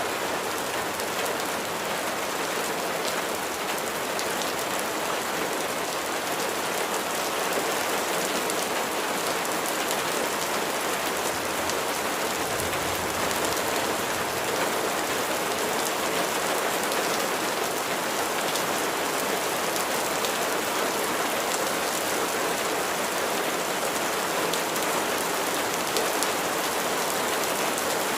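Steady rain falling, an even patter of many drops hitting a surface.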